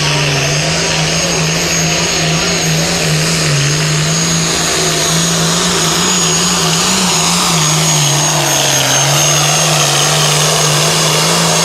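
Turbocharged diesel Pro Farm pulling tractor running flat out under load during a pull, its engine note holding steady with slight wavers and a steady high whistle above it.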